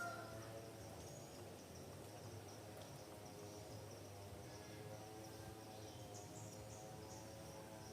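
Faint rural ambience: insects keep up a steady high buzz over a low, even drone, with a few faint bird chirps.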